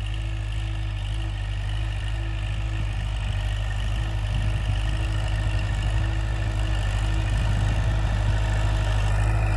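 Kubota L5018SP tractor's diesel engine running steadily at low revs, growing gradually louder.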